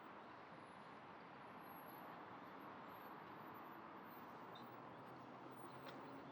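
Near silence: a faint, steady hum of distant city traffic, with one faint click near the end.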